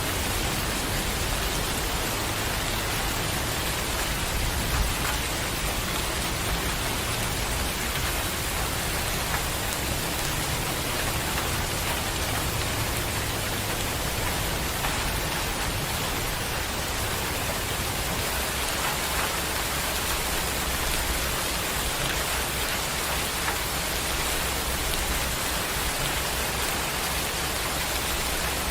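Steady heavy rain falling, an even hiss with scattered sharper drop hits. A low rumble underneath swells and fades.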